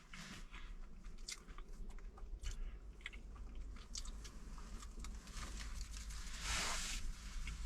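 Close-up chewing and biting of a stove-toasted corn flatbread, with small crunches and mouth clicks, and a brief hiss about six and a half seconds in.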